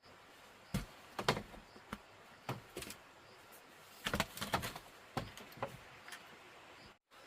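Irregular knocks and clatter, several in quick clusters with short gaps between.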